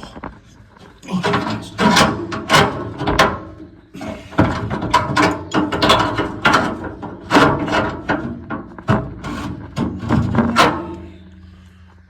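Irregular clattering and knocking of hard objects being handled and set down, with sharp clanks every second or so.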